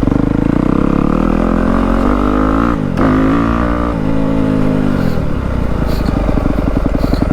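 Yamaha WR250F four-stroke single-cylinder dirt bike engine running loud through a YZ slip-on exhaust. It revs up about two seconds in, breaks off briefly near three seconds, revs again, and eases back about four seconds in to a steady run.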